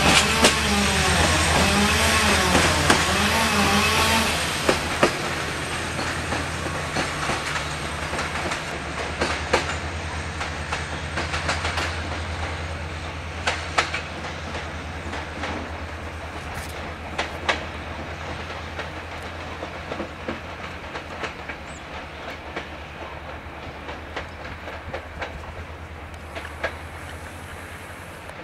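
Departing regional train hauled by a Class 65 diesel locomotive: a steady low engine drone with wheels clicking over the rail joints, fading as the train pulls away. A wavering wheel squeal sounds in the first few seconds.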